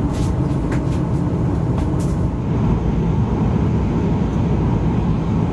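Boeing 737 cabin noise: a steady low rumble of the engines and airflow heard from inside the cabin, with a few brief clicks or rattles in the first two seconds.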